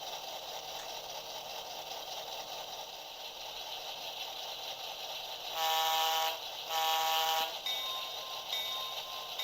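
Sound decoder of a Walthers Proto GP7 model diesel locomotive playing its engine and cooling-fan running sound through the model's small speaker. About six seconds in come two horn blasts, then a repeating bell-like ring.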